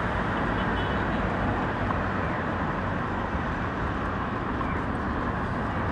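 Steady city-street traffic noise, an even rush with no distinct events.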